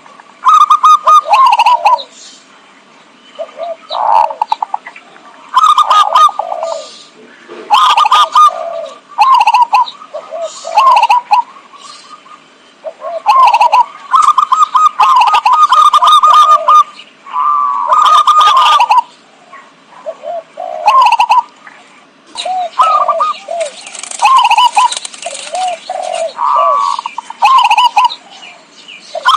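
Zebra dove (perkutut) song played as a lure call: loud, repeated phrases of rapid bubbling coos every second or two, with some crackly clipping on the peaks.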